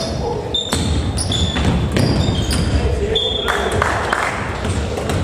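Basketball in play on an indoor court: many short high squeaks of sneakers on the floor, mixed with the thuds of the ball and footsteps, ringing in a large hall.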